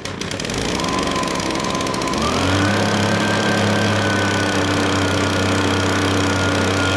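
Echo PB-265L backpack leaf blower's two-stroke engine running, throttled up about two seconds in and held at the higher speed. It runs with the flywheel refitted on a partly sheared flywheel key that had let the flywheel rub the ignition coil.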